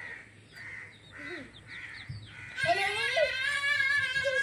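Birds calling: a run of short repeated calls, then, about two and a half seconds in, a much louder, long call with a slightly wavering pitch.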